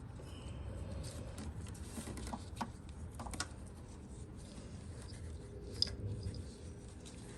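Light handling noise as an ignition coil is worked back into place in the engine bay: faint rubbing with a few small clicks, the loudest about six seconds in.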